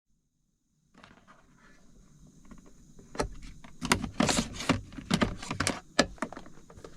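Handling noises: a quick run of sharp clicks and clatters with rustling, loudest in the middle and ending abruptly near the end.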